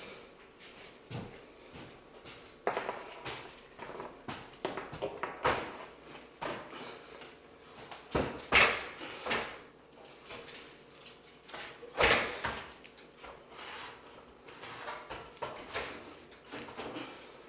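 Irregular knocks, clunks and scrapes of parts being handled and fitted during a microwave installation, with the loudest bangs about eight and twelve seconds in.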